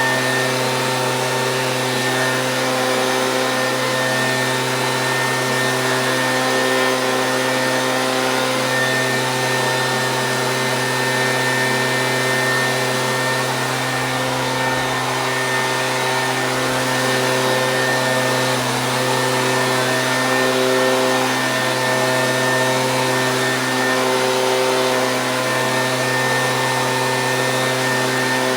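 Stihl BG 86 handheld leaf blower's small two-stroke engine running steadily, its fan blowing, with a constant pitch throughout.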